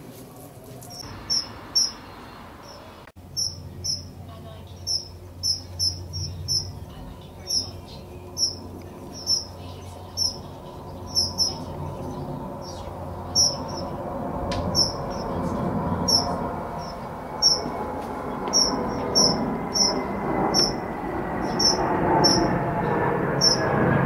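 A small bird's short, sharp, high chirps, repeated about once or twice a second: frantic calls from a bird being played with by a cat. A low hum grows louder under them in the second half.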